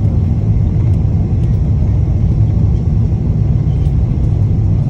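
Steady low rumble of a Boeing 777-200 airliner heard from inside the cabin: engine and airflow noise, even and unbroken.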